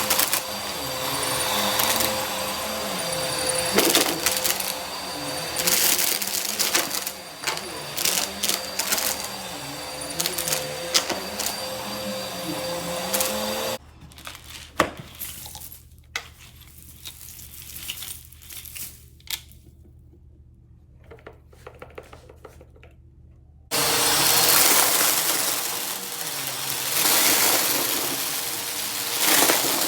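Vacuum cleaner with an overflowing bin running and crunching through confetti, with many sharp clicks and rattles as pieces are sucked in. It is switched off about 14 seconds in, leaving only faint scattered clicks and rustles, then starts up again about 24 seconds in.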